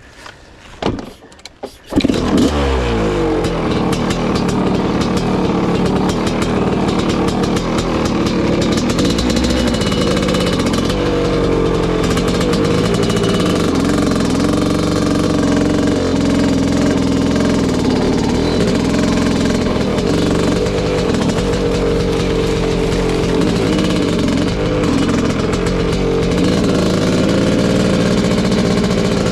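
1986 Kawasaki KX500's 500 cc single-cylinder two-stroke engine, fitted with an FMF exhaust pipe, firing up about two seconds in after a few knocks and then running loud, its revs rising and falling.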